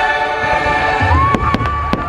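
Fireworks bursting over the show's sung music soundtrack: a deep boom about a second in, then several sharp cracks near the end, while long held voices and instruments continue underneath.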